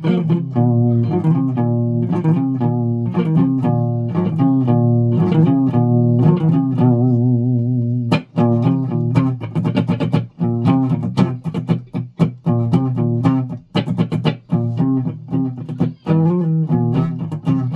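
A guitar played note by note, some held notes wavering in pitch; about eight seconds in the playing turns to quick, sharp-edged picked notes.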